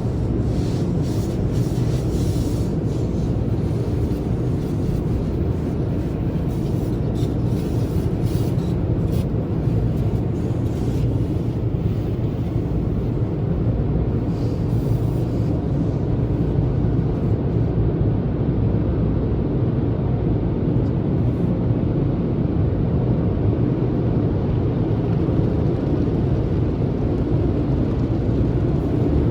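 Tunnel car wash equipment running, a steady low rumble of machinery and water spray, with scattered light ticks and patter in the first dozen seconds or so.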